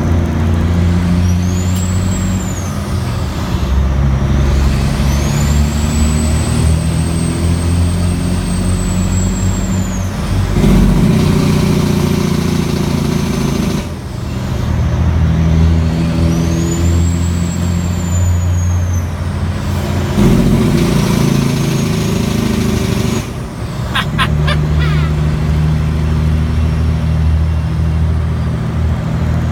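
Caterpillar C15 single-turbo diesel in a Kenworth W900L pulling hard under a heavy load, its turbo whistle rising and falling three times over the steady engine drone. A short run of clicks comes near the end.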